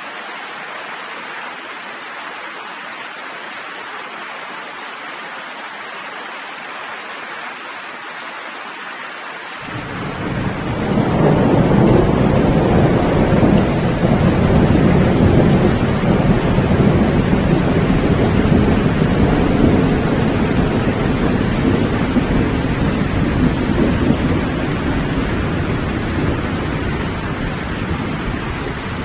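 Steady rain hiss, then about ten seconds in a long, low rolling thunder rumble swells up under the rain, stays loud for several seconds and slowly dies away while the rain continues.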